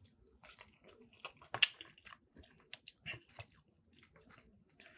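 A person chewing a mouthful of soft macaroni and cheese, with wet smacking and clicking sounds at irregular intervals.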